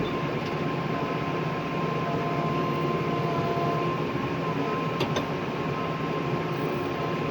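Tractor engine running steadily under way, heard from inside the cab, with a steady whine over the drone and a couple of light clicks about five seconds in.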